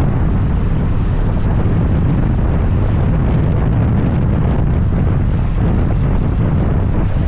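Steady wind rumble on the microphone of a moving scooter, with the scooter's road and engine noise underneath.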